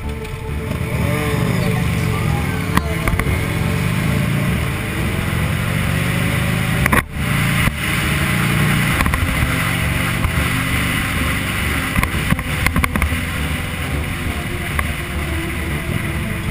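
Buell XB12R's air-cooled V-twin engine running hard as the motorcycle accelerates from a stop and rides on, its pitch stepping up and down through the gears, with a brief dip about seven seconds in.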